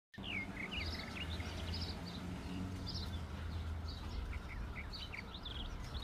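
Birds chirping in many short, high notes, several a second, over a steady low rumble of outdoor background noise.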